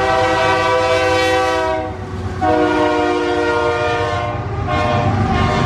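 Freight locomotive air horn sounding a chord in three blasts: a long one ending about two seconds in, a second shortly after, and a third starting near the end. A diesel locomotive's low rumble runs underneath as the intermodal train approaches.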